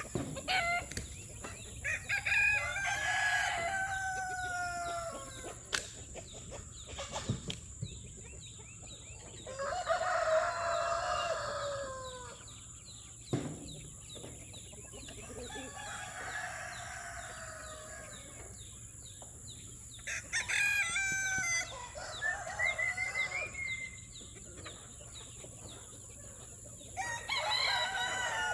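Roosters crowing repeatedly, each crow a drawn-out call that falls in pitch, a few seconds apart, with chickens clucking between crows. A few sharp knocks are also heard.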